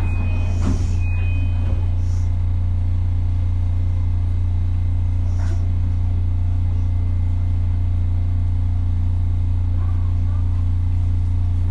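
Steady low electrical hum from the equipment of a JR Kyushu BEC819 battery-electric train car, heard from inside the cabin. Two short high electronic beeps sound in the first two seconds, with faint passenger voices.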